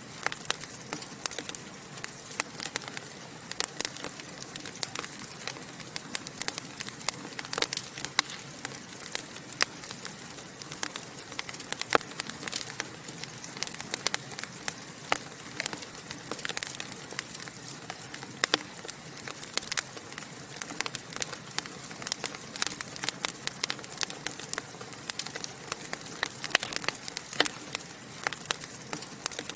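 Wood fire in a fireplace crackling and popping steadily: a dense, irregular stream of sharp pops and snaps over a soft hiss of burning.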